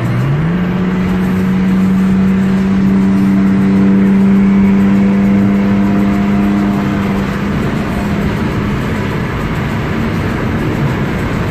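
Car engine revved up just after the start and held at a steady high rpm for about eight seconds, then fading back.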